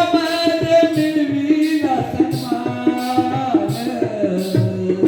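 Jakhadi folk music: a held melody that changes pitch in steps, over a steady percussion beat of about two to three strokes a second.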